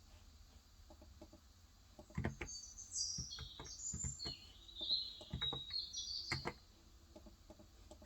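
Typing on a COX Endeavor electrostatic capacitive keyboard with light 35 g keys: a quick run of keystrokes starts about two seconds in, with a few faint taps before it. Over the keystrokes a small bird sings a high, twittering song for a few seconds.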